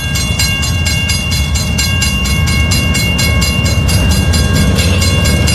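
Motorcycle engines running steadily, with an even, rapid pulsing of about eight beats a second and a steady whine over it, sounding much like a train.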